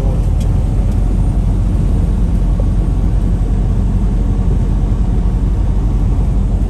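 Heavy truck cruising on the highway, heard from inside the cab: a steady low engine drone mixed with road noise.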